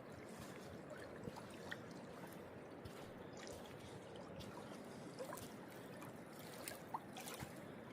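Faint, steady rushing of a river's current, with a few small clicks.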